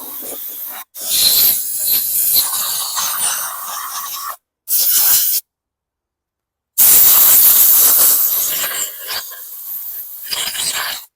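Loud hissing spray in several bursts, each cut off abruptly, the loudest starting about two-thirds of the way in.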